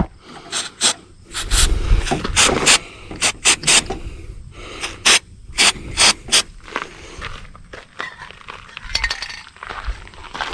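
Sharp metallic clicks and clinks, a dozen or more at an irregular pace, with light scraping between them, from hands working the Ford F-150's tailgate latch rods and mechanism; the clicks thin out in the last few seconds, leaving softer rubbing.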